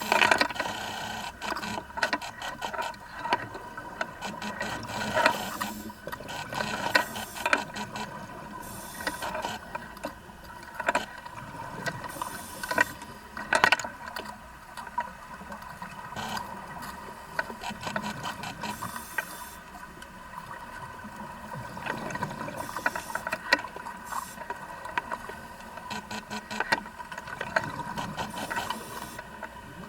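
Vacuum pump for sea urchin harvesting running with a steady hum of constant tones, with frequent irregular clicks and knocks throughout.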